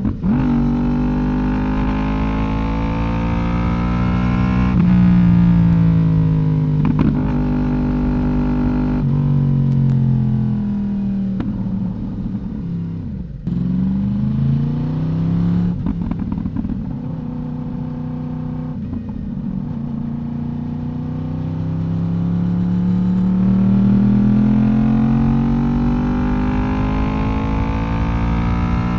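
Yamaha YZF-R1 inline-four through an Akrapovic exhaust, on the move: it revs up with a sharp pitch drop at each upshift, winds down to a low point with short blips near the middle, then pulls up again in a long rise.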